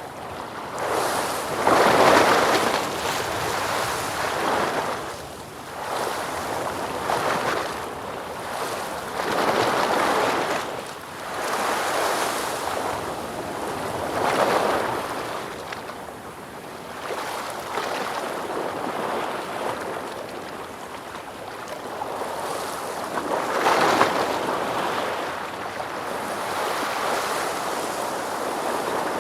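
Ocean waves breaking and washing in, a steady surge of surf that swells and ebbs every few seconds, with the biggest breakers about two seconds in and near the end.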